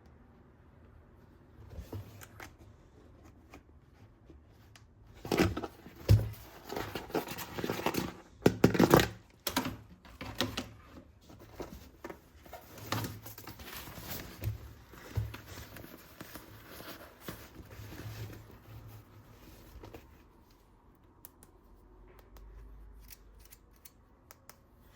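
Clicking and rustling of plastic toy parts and packaging being handled. A cluster of sharp clicks and rustles comes about a quarter of the way in, then lighter scattered handling sounds.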